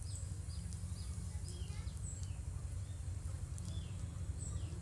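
Birds calling with repeated short, falling chirps over a steady low rumble of outdoor background noise.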